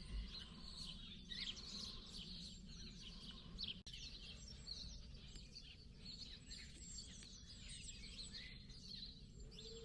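Several small birds chirping and singing, many short overlapping calls, over a faint steady low background rumble.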